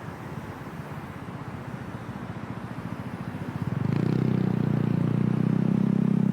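A road vehicle's engine running with a fast low pulsing; it grows louder and steadier about four seconds in.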